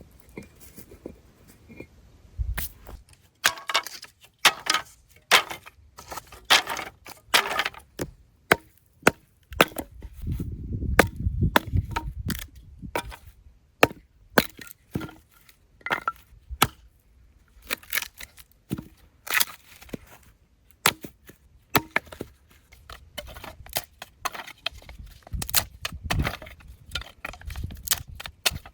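Repeated chopping strikes on wood: irregular sharp knocks, sometimes several in quick succession.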